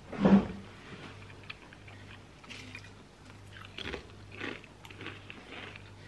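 A person biting into and chewing a toasted chicken sandwich, the toasted bread crunching. There is one louder crunch of a bite just after the start, then softer scattered crackles of chewing.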